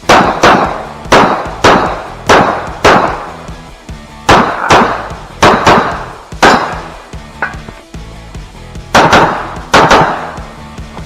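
Glock 34 9mm pistol firing a rapid string of about fifteen shots, mostly in quick pairs about half a second apart, with a longer break in the middle. Background music plays underneath.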